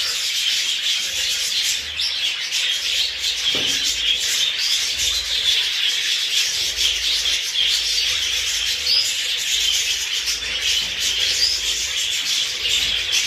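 A flock of budgerigars chattering and warbling together in a dense, continuous stream, with short high chirps standing out here and there.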